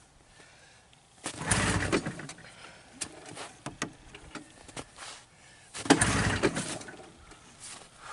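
Two pulls on the recoil starter rope of a Ski-Doo Formula STX's Rotax 583 two-stroke twin, about a second and a half in and again about six seconds in, each turning the engine over for about a second without it catching: a failed cold start, which the owner takes for a flooded engine.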